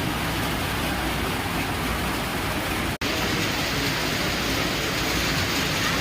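Steady rushing noise of rain falling, which cuts out for an instant about halfway through.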